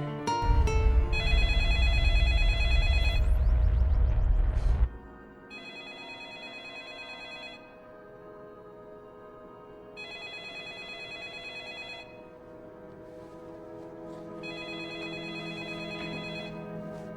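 A telephone ringing four times, each ring about two seconds long and coming about every four and a half seconds, over soft sustained music. For the first five seconds a loud low rumble lies under the first ring.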